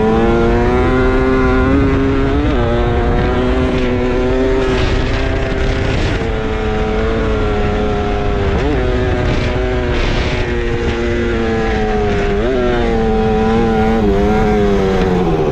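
Yamaha Banshee two-stroke quad bike engine running hard at high revs. Its pitch holds high, then drops and climbs again several times as it shifts through gears at speed.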